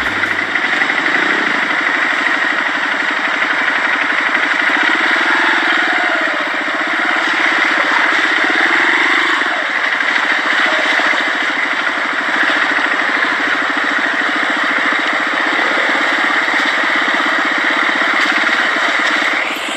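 Motorcycle engine running steadily under way, a dense rapid firing pulse under a constant rush of noise.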